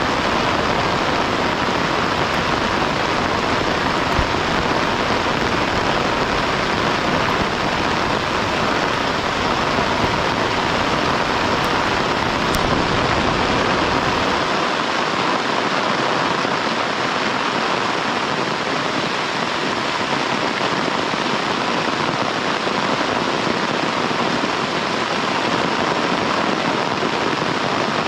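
Heavy rain falling in a steady downpour. A low rumble underneath it stops about halfway through.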